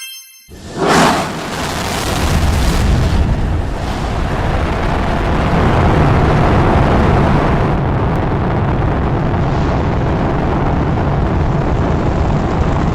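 Rocket launch sound effect: a sudden blast about a second in, then a loud, steady, rumbling roar of the rocket engines.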